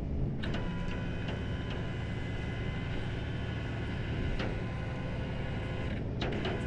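Tow truck engine running steadily, with a few faint clicks.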